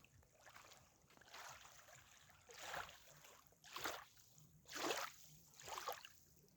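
Rowing strokes: a boat's oar blade swishing through the water about once a second, five strokes in a row, faint against low water and wind noise.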